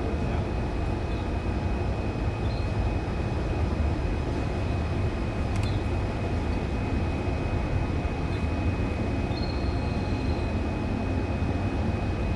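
Steady low rumble with a constant thin high-pitched whine, and a few faint, short bird chirps; the longest is a thin whistle about ten seconds in.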